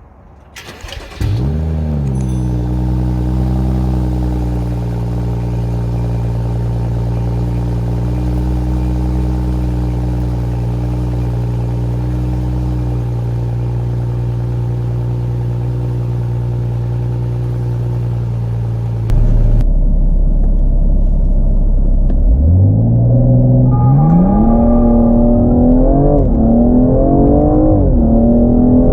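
BMW M235i's turbocharged 3.0-litre inline-six cold-starting about a second in: the revs flare up and settle into a steady fast idle. Later it gets louder, and the engine is revved up and down in several quick throttle blips.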